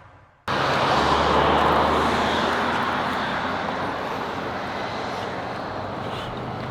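Jet aircraft flying overhead: a loud, steady rush of engine noise with a low hum that cuts in about half a second in and slowly fades.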